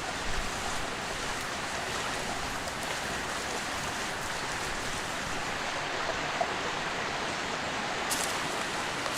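Clear river flowing: a steady rush of running water, with a couple of faint clicks near the end.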